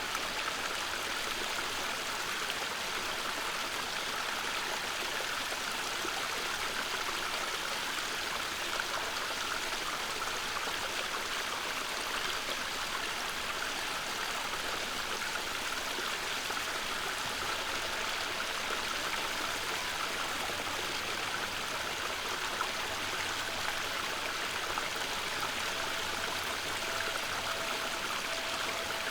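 Water running steadily in a small stream at a bird watering spot, an even, unbroken rush.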